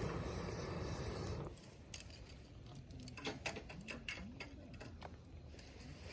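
A breathy rush of air for the first second and a half, then burning firewood crackling with scattered sharp pops.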